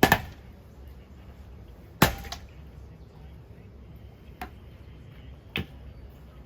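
Spinning ceiling fan blades whacking a tossed boat buoy: a loud quick double hit, another loud hit about two seconds later, then two lighter knocks.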